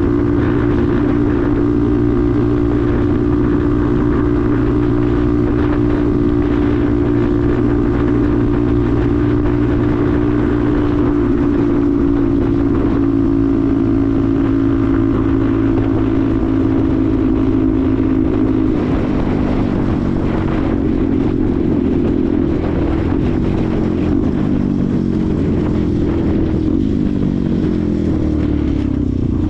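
Benelli TNT 125's single-cylinder 125 cc engine running under way at steady revs. From about two-thirds of the way through, the engine note falls in a series of steps as the bike slows.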